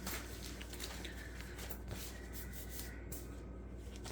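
Soft rubbing and rustling of paper and card being handled and slid against each other, with a few light ticks, over a faint steady low hum.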